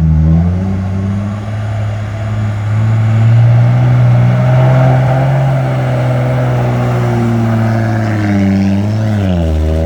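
A dump truck's diesel engine running hard under load as it climbs the ramp out of the pit. Its pitch rises a little over the first few seconds, holds steady, then dips and recovers about eight to nine seconds in.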